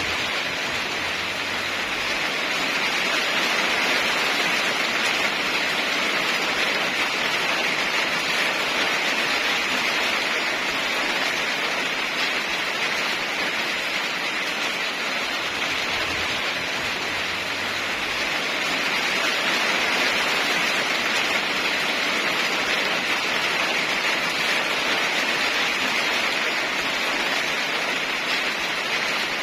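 Steady heavy rainfall, a continuous even hiss that swells gently and eases in loudness every several seconds.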